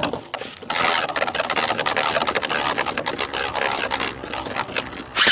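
3D-printed Beyblade spinning tops whirring and clashing in a plastic stadium: a dense, fast plastic rattle that starts with a sharp crack and ends with a loud burst near the end.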